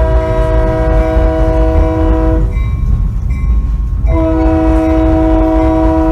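Locomotive horn sounding a chord of several tones in two long blasts: one ending about two and a half seconds in, the next starting about four seconds in and still going at the end. Under it, the steady low rumble of the train cars running.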